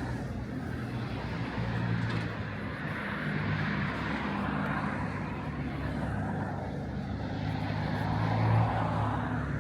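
Steady low engine hum of a motor vehicle, swelling briefly near the end.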